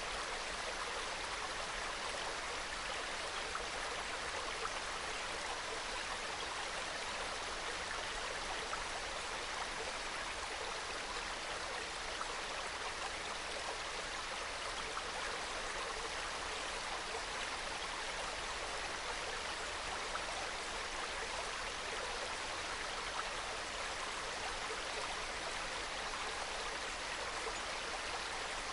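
A small mountain stream flowing and trickling over rocks, a steady, soft babbling of water.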